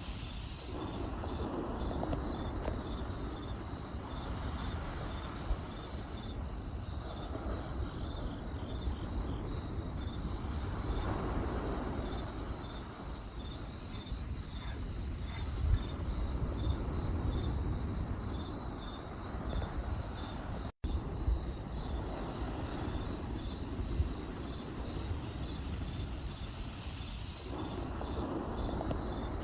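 Crickets chirping in a fast, even pulse over the crackle and low rush of a campfire, with a few louder pops from the fire.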